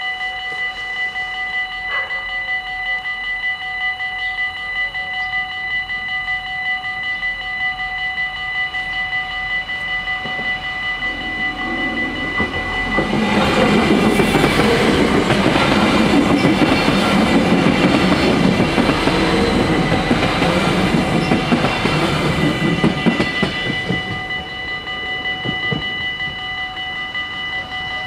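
Dutch level-crossing warning bells ringing steadily throughout. A Stadler GTW diesel railcar passes over the crossing from about 13 to 24 seconds, its engine and wheels on the rails building to the loudest part and then fading while the bells ring on.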